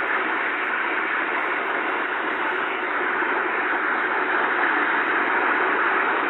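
Steady hiss of radio static from a receiver, with no Morse tones or key clicks standing out.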